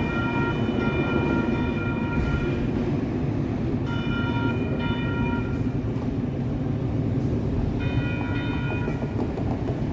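Light rail train running with a steady low rumble. A high ringing tone of several pitches sounds over it in three stretches of one to three seconds.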